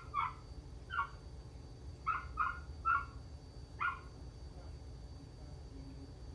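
Short, sharp animal calls, about seven in uneven groups over the first four seconds, then quiet, over a steady low rumble.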